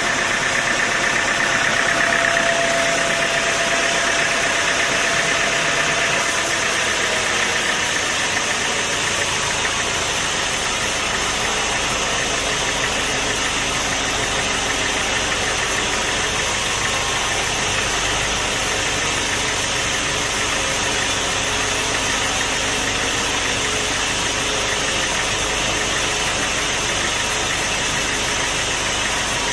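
Sawmill machinery running steadily, a constant engine-like drone with a broad noise. A faint whine in the first several seconds fades out.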